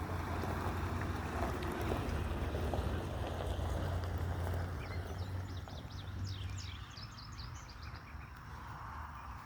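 Low, steady engine rumble with a rushing noise, like a passing motor vehicle, that fades away after about five seconds; then a run of short, high bird chirps.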